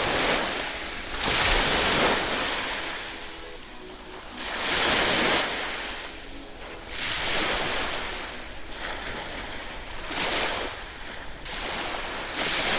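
Ocean surf: waves breaking and washing up the beach, the rush swelling and fading about every two to three seconds, with faint background music underneath.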